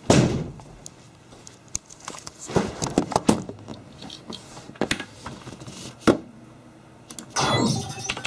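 Scattered clicks, knocks and scrapes of small objects being handled, with a short rustling scrape just after the start and another near the end.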